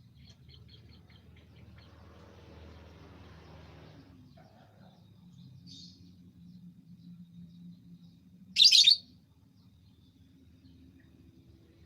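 Small birds chirping: a quick run of short high chirps in the first couple of seconds, a few faint calls, then one much louder short call about eight and a half seconds in, over a faint low hum.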